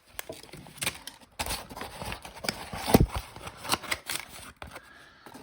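Hands rummaging through a box of packaging and cards: a run of rustles and small clicks, with one loud knock about three seconds in.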